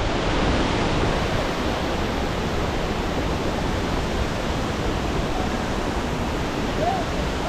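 Steady rushing roar of a waterfall, an even noise with no breaks.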